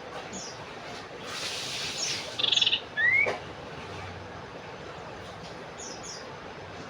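Common iora (cipoh) calling: a series of short, high, falling chirps, with a loud buzzy rattle about two and a half seconds in, followed at once by a short rising whistle.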